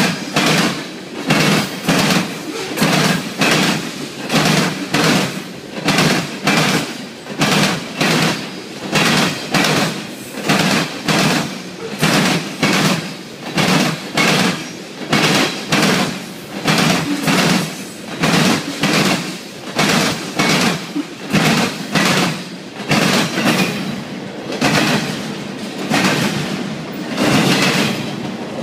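CSX freight train's refrigerated boxcars and then double-stacked container well cars rolling past, the wheels clacking on the rails in a steady beat about once a second over a continuous rumble.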